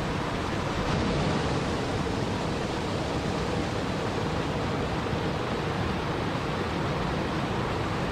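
Steady, even rushing of water, an unbroken relaxation ambience with no distinct events.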